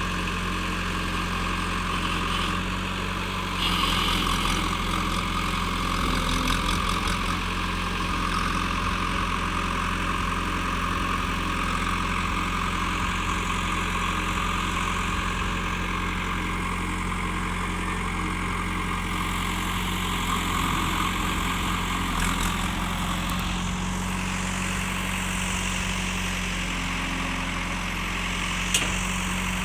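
Mahindra XP tractor's diesel engine running steadily, getting louder about three and a half seconds in. There is a single sharp click near the end.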